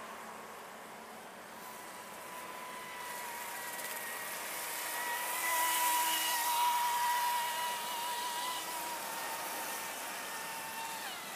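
Exceed RC Viper electric speed boat's brushless motor running at half throttle: a steady high whine with the hiss of the hull cutting water. It grows louder about halfway through as the boat passes close, then fades.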